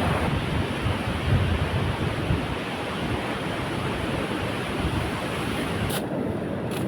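Sea surf and strong wind, a steady rushing noise with wind buffeting the microphone in low rumbles.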